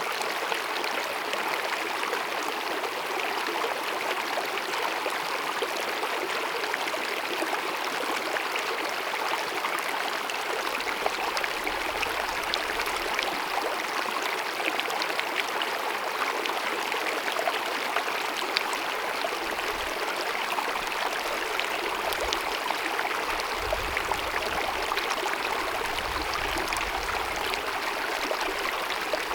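Small glacier-fed mountain meadow stream babbling over rocks: a steady, even rush of running water. A faint low rumble comes and goes in the second half.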